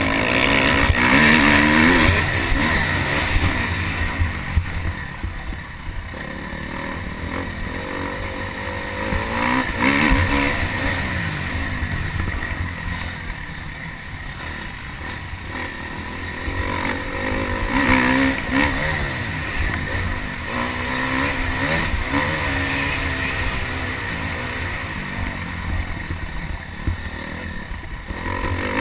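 Motocross dirt bike engine revving hard and easing off again and again, its pitch climbing and dropping with each burst of throttle and shift.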